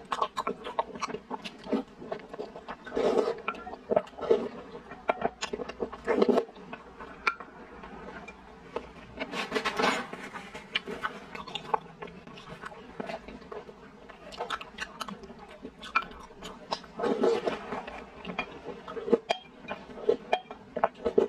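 Close-miked chewing of soft, sticky glutinous-rice balls and jelly, with many wet smacks and clicks of the mouth. A brief tissue rustle comes about halfway through.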